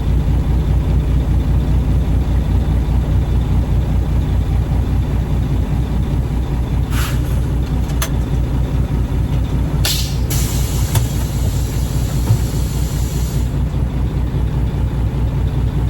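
Dump truck's diesel engine running steadily with an even low rumble. Short bursts of air hiss come about seven and ten seconds in, followed by a longer hiss of about three seconds.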